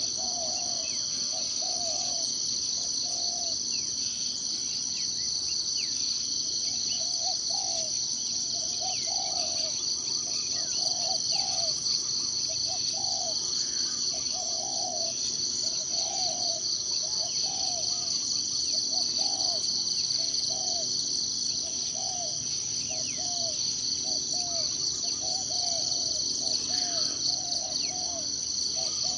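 Forest insect chorus: a steady, high, pulsing drone of crickets or cicadas. Over it comes a low call in runs of short, arched notes. The call pauses for a few seconds near the start, then repeats more and more often. A few faint higher bird chirps come through here and there.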